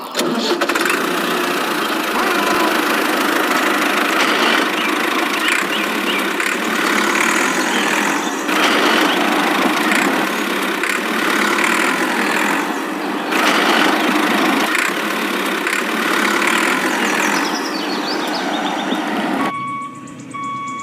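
A small motor or engine running steadily, with a dense mechanical noise that holds for most of the stretch. It stops near the end, and two short beeps follow.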